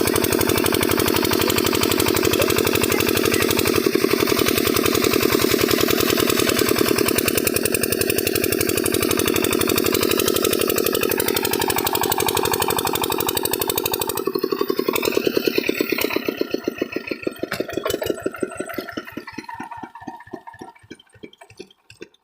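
8 HP diesel engine of a water pump set running steadily. About two-thirds of the way in, its strokes slow and become separately audible, spacing out and fading as the engine runs down to a stop near the end.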